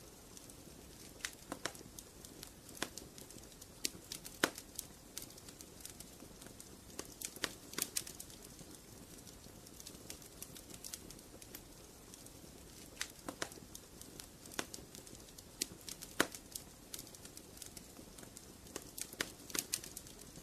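Wood fire crackling in a fireplace: irregular sharp pops and snaps, some in quick clusters, over a low steady hiss of burning.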